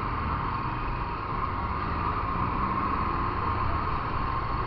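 Motorcycle underway: the engine running steadily under a constant rush of wind over the microphone.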